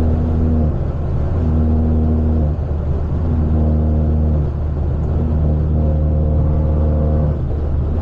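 Straight-piped, catless BMW 530 exhaust droning steadily while cruising, with a higher hum that comes and goes every second or so over the low drone.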